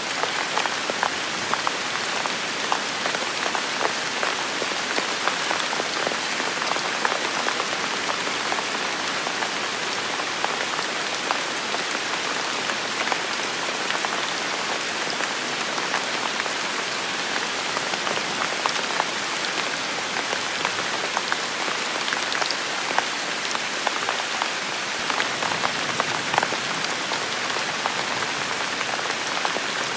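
Steady heavy rain, with countless individual drop hits pattering through an even hiss.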